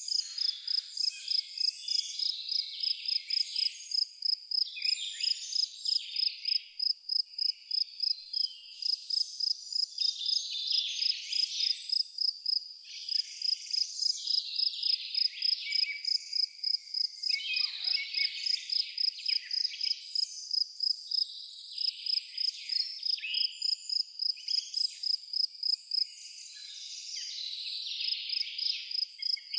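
A cricket chirping in a fast, even rhythm at one high pitch, pausing for a moment near the end, with birds singing irregularly around it.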